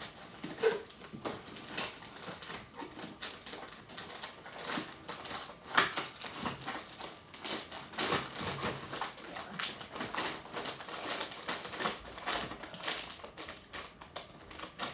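Irregular clicking, tapping and crackling of small items and packaging being handled and rummaged through, with a few sharper knocks.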